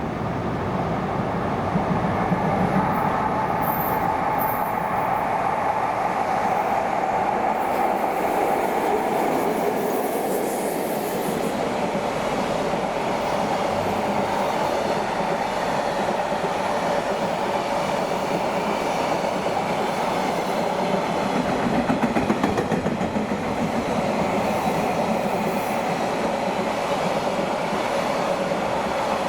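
Freight train hauled by an EF66 electric locomotive rolling past, a steady rumble of wagon wheels on the rails that holds for the whole stretch, briefly a little louder about 22 seconds in.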